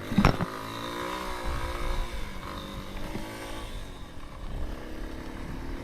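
Motorcycle engine revving hard under acceleration: a brief loud burst near the start, then the pitch climbs and bends for about two seconds before easing back to a steadier run.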